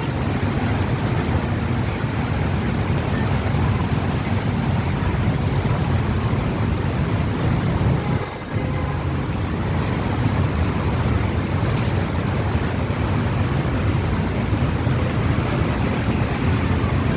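Rain falling steadily, a continuous rushing hiss over a heavy low rumble, with a brief dip about eight seconds in.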